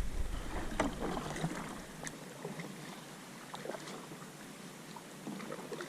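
Canoe being paddled: faint, irregular light splashes and knocks from the paddles in the water and against the canoe. A low rumble dies away about two seconds in.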